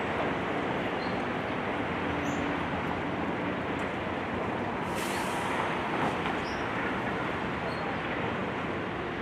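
Heavy demolition machinery running steadily, with a brief sharp hiss about five seconds in.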